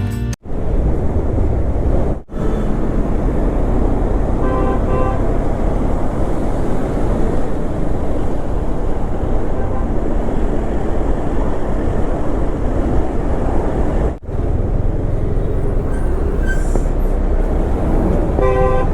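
Wind rushing over the microphone and road noise from the KTM Duke 250 at riding speed, one steady loud noise that cuts out briefly three times. Two short steady tones, like a horn, sound about five seconds in and again near the end.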